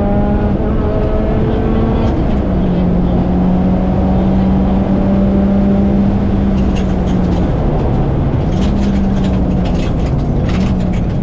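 Turbocharged 2.5-litre flat-four of a 2010 Subaru Impreza WRX STI hatch, heard from inside the cabin, pulling hard at speed with a steady engine note that dips and picks up again a few times. Dense tyre and road noise from the wet tarmac runs underneath, and scattered sharp ticks come in during the second half.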